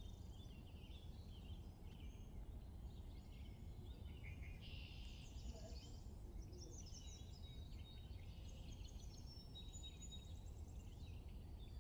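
Faint birdsong, many short chirps and trills scattered throughout, over a low steady background rumble.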